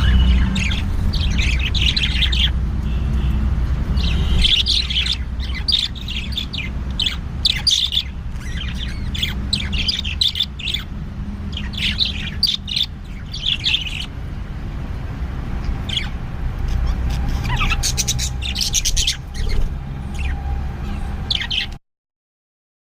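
Birds chirping and squawking in short repeated bursts over a steady low rumble, the sound stopping abruptly near the end.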